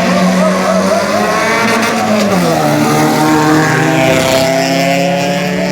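Car engine running loud at high revs, its pitch dropping once about two seconds in and then holding steady.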